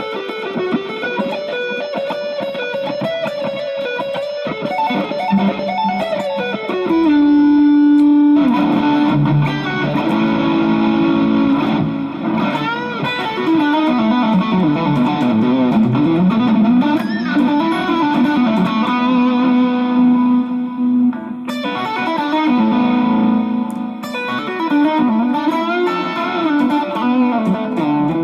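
Electric guitar played through an amplifier with light drive. It plays sustained lead notes with a downward slide, bends and vibrato, and held chords, with a short break about three quarters of the way through. The guitar is fitted with a treble-bleed circuit (1 nF 102J capacitor) on its volume pot and a 22 nF Orange Drop tone capacitor, which keep the tone bright.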